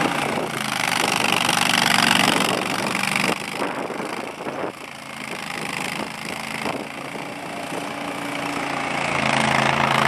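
Engine of a snow-clearing machine running steadily while plowing a driveway. It grows fainter in the middle and louder again near the end.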